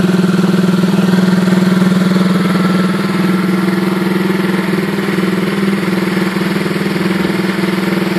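Honda Dax's swapped-in 125cc Lifan single-cylinder four-stroke engine idling steadily through an aftermarket Kepspeed exhaust, slightly quieter after about three seconds.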